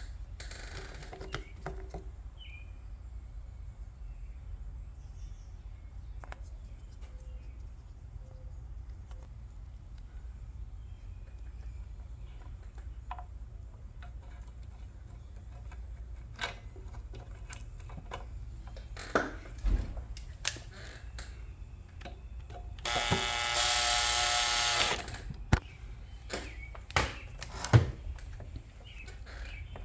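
Scattered clicks and knocks of hand work on a leaf blower's carburetor over a steady low hum, then, about three-quarters of the way through, a power drill runs with a steady whine for about two seconds, likely driving in the carburetor's mounting screws.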